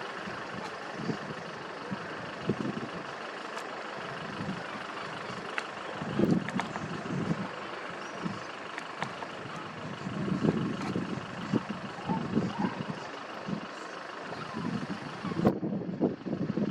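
Steady outdoor background noise with the low rumble of passing road vehicles rising and falling a few times.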